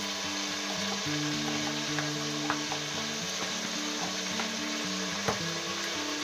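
Sliced onions frying in hot oil, a steady sizzle, as blended tomato and pepper is spooned into the pot, with a few sharp taps of the metal spoon, the loudest about five seconds in.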